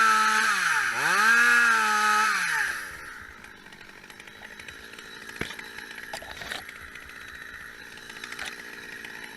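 Two-stroke chainsaw running at high revs, its pitch dipping sharply once about a second in and climbing back before the throttle is released near three seconds. After that a much quieter steady engine sound remains, with a few short knocks.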